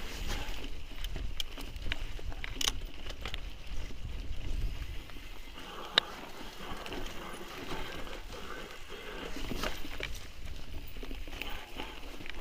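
Mountain bike rattling over a rough, stony trail while riding downhill, with steady wind rumble on the microphone and scattered clicks and knocks from the bike and loose stones, one sharp click about halfway through.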